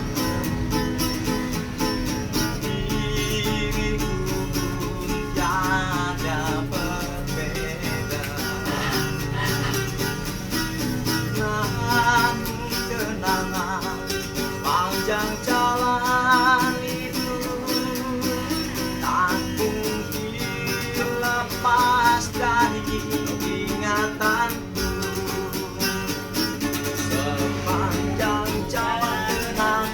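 A street busker's live song accompaniment: guitar playing with a bass line under a wavering melody line that returns every few seconds, an instrumental passage between sung verses.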